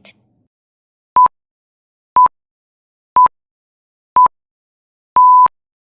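Electronic countdown beeps in a single pure tone: four short beeps a second apart, then one longer final beep. They mark the answer time running out before the answer is given.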